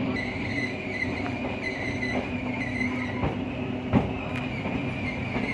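Passenger train running along the track: a steady rumble and rattle with a few short knocks, the sharpest about four seconds in.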